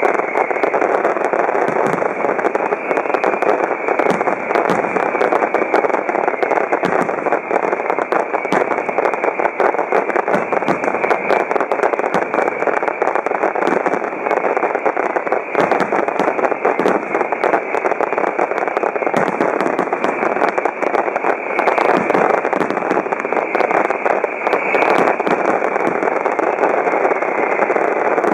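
Grand finale of a professional fireworks display: a dense, unbroken barrage of aerial shell bursts and crackle. The explosions come so fast that they merge into one continuous loud din, with sharper cracks standing out throughout.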